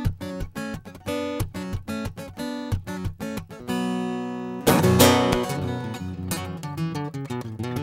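Acoustic guitar played live in an instrumental passage: quick picked notes, then a loud strummed chord a little under five seconds in that rings out before fast picking resumes.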